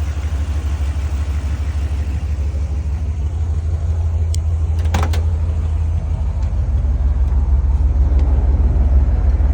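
Ford small-block V8 engine with Edelbrock Pro-Flow 4 fuel injection idling steadily, warmed up to operating temperature. A brief click comes about five seconds in, and from about six seconds the idle gets a little louder and more pulsing.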